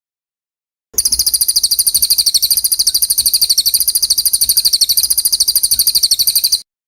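A songbird's recorded song: one long, very high-pitched trill of rapid, even pulses, starting about a second in and cutting off abruptly near the end.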